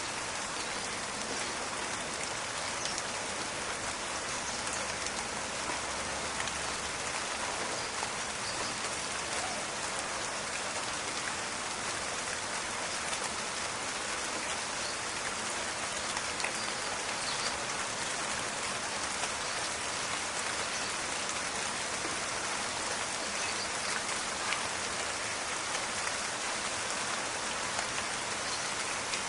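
Steady rain falling, an even hiss with scattered individual drops ticking and crackling on leaves.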